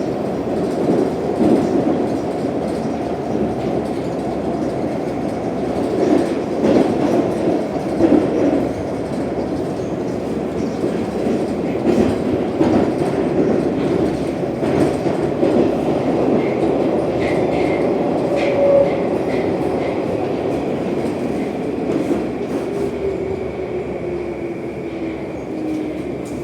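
Metro train running through the tunnel, heard from inside the car: a steady rumble with wheels clacking over rail joints. Near the end a whine falls in pitch as the train slows for the next station.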